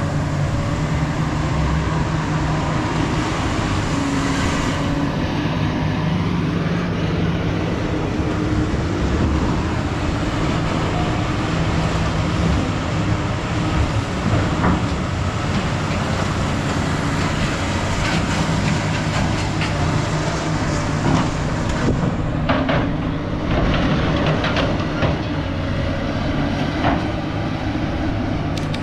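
A heavy diesel machine running steadily under load, with scattered metal clanks and knocks as scrap steel is handled, the knocks coming more often near the end.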